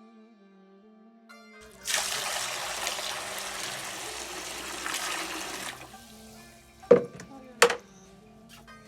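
Water running or pouring steadily for about four seconds, starting about two seconds in, then two sharp knocks a little over half a second apart, over background music.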